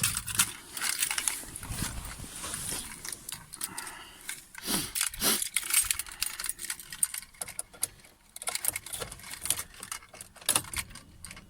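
Irregular footsteps and handling noise, with rustling, clicks and keys jangling.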